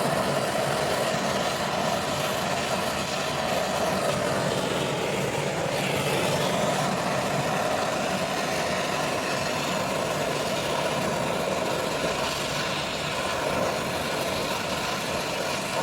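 Gas brazing torch flame burning with a steady hiss, heating a copper pipe joint on a window AC during a leak repair.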